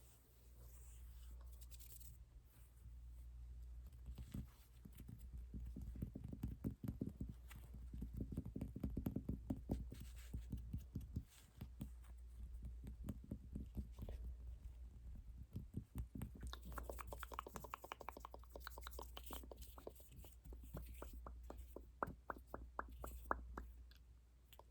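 Close-miked ASMR trigger sounds: runs of quick, light taps and clicks, several a second, with a row of sharper, distinct clicks near the end.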